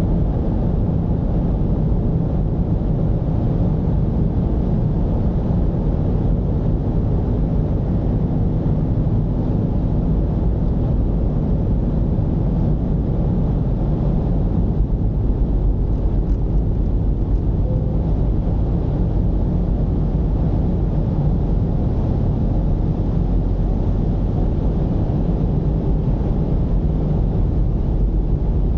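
Mercedes-Benz V220's diesel engine running steadily as the van drives, a deep low rumble mixed with road noise.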